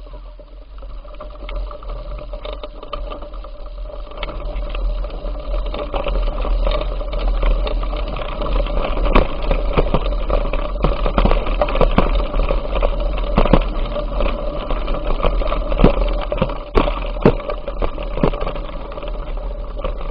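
Bicycle being ridden: rattling and knocking from the bike over the path, over a steady hum and low wind rumble on the microphone, growing louder over the first several seconds.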